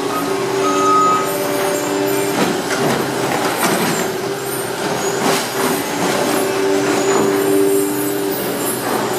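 American Baler industrial baler and its conveyor running: a steady mechanical drone with several humming tones that drop out and come back every second or two, and scattered clanks and rattles.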